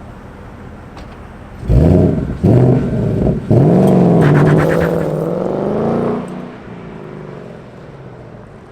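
2018 Ford Mustang GT's 5.0-litre Coyote V8 exhaust, low at first, then suddenly loud as it accelerates hard about two seconds in. The note breaks off briefly twice as it shifts up, climbs steadily in pitch for nearly three seconds, then drops back when the throttle is lifted.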